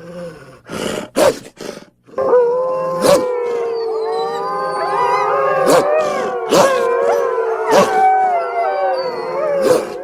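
Wolf howls used as a dire wolf sound effect: a few short sharp calls about a second in, then a chorus of several long, overlapping howls at different pitches, with short sharp calls breaking in. It cuts off at the end.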